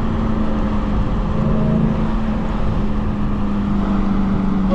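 A Dodge Charger SRT Hellcat's supercharged 6.2-litre HEMI V8 running at low speed with the supercharger whining steadily, heard through a partly open window with road noise underneath.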